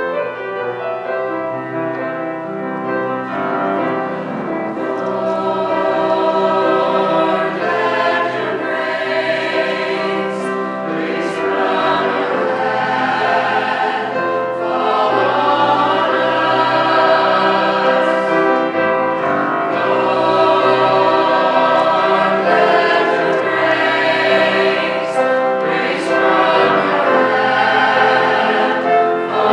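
Choir singing a hymn with instrumental accompaniment, swelling louder over the first few seconds.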